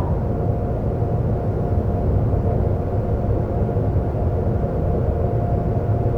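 Seoul subway train running steadily: a continuous low rumble of wheels on track with a constant motor whine over it.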